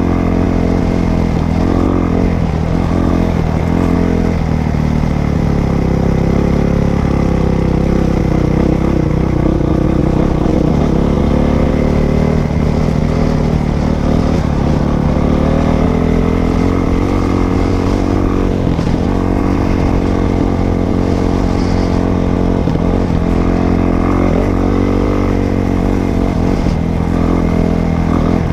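Dirt bike engine running while being ridden, its pitch rising and falling several times with the throttle.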